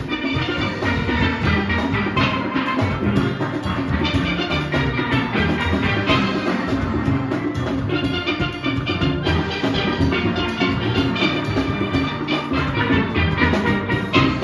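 Youth steel orchestra of many steelpans playing a fast soca arrangement over drums.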